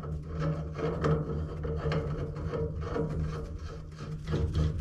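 Tools working on gas pipe fittings: repeated rubbing and scraping with light clicks of metal, over a steady low hum.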